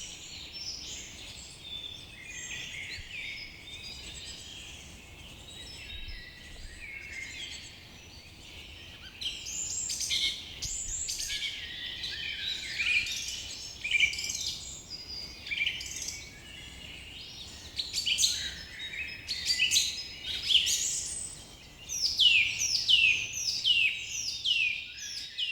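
Several birds calling and singing at once in a forest, many overlapping chirps and whistles, with a run of quick descending notes near the end.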